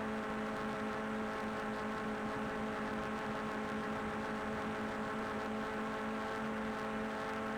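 Steady whine of a small drone's propellers and motors, holding one even pitch.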